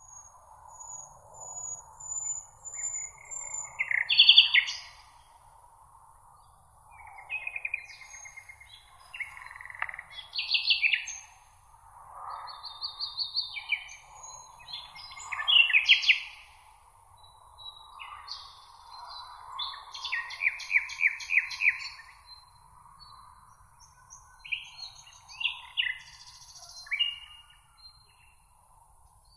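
Songbirds singing short chirping phrases and rapid trills, one after another, over a steady faint high hiss.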